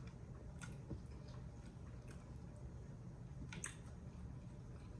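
Faint eating sounds: soft, wet chewing with a few light clicks spread through.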